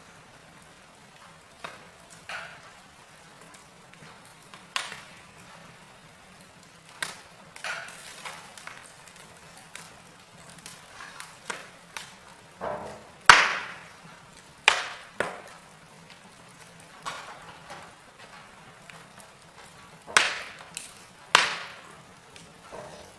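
Wood fire in a fireplace crackling: irregular sharp pops and snaps over a faint steady background, the loudest pop about halfway through and a few strong ones near the end.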